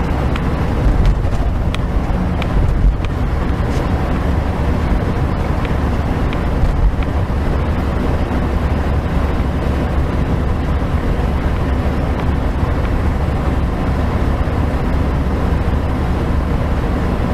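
Steady drone of a heavy truck's engine and road noise heard inside the cab while descending a long grade.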